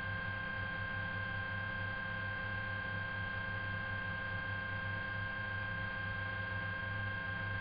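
Steady electrical hum and hiss of a radio or intercom audio feed between transmissions, with two faint steady high tones over it.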